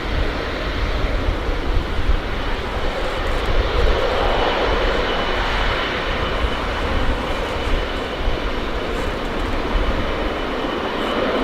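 Boeing 777-200ER's twin GE90 turbofans at takeoff power: a loud, steady jet roar with a faint high whine riding on top.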